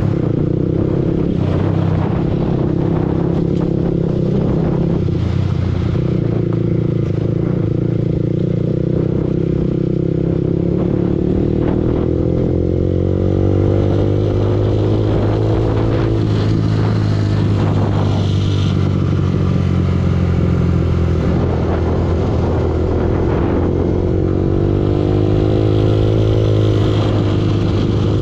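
Yamaha R15 V2's single-cylinder four-stroke engine running under way, its pitch holding steady and then climbing twice as the throttle opens, about halfway through and again near the end.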